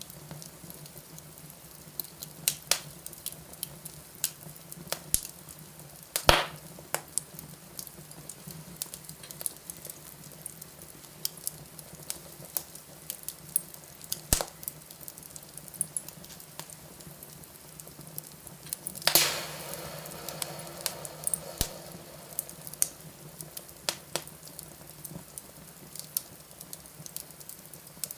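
Fire in a fireplace crackling with sharp, irregular snaps. There is a loud pop about six seconds in and another about eight seconds later, and a hiss that swells and fades over about two seconds roughly two-thirds of the way through.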